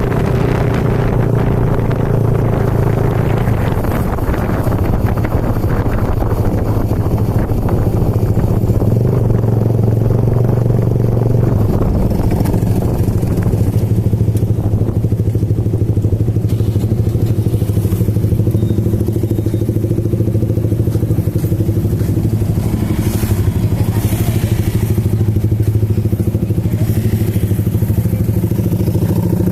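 Motorcycle engine running steadily while riding, its low note holding nearly constant, over a haze of road and wind noise.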